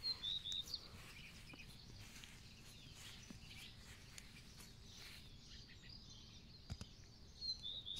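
Birds chirping faintly: a few short, high chirps within the first second and again near the end, over a quiet background.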